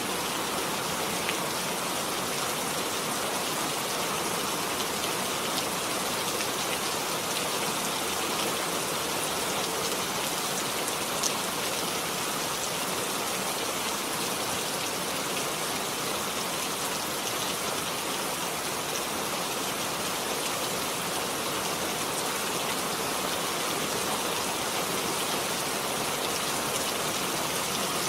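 Steady rain falling, an even hiss with scattered small drop ticks, one a little sharper about eleven seconds in.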